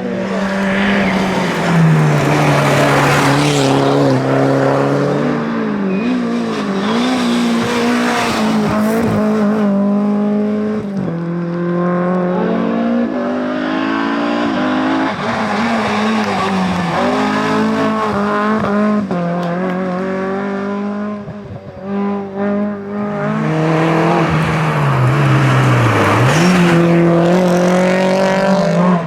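Rally car engines revving hard and changing gear at speed, the pitch climbing and dropping with each shift as the cars pass. The sound fades briefly about three-quarters of the way through, then builds again.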